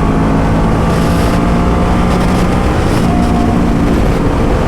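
Motorcycle engine running at a steady cruise, its note holding level and shifting only slightly, under a constant rush of road and wind noise.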